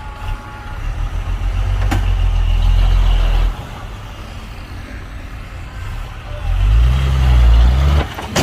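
Heavy diesel engine of earthmoving machinery revving up twice under load: a long surge that cuts off after a few seconds, then a second rise in pitch near the end that stops abruptly, with a couple of sharp clicks.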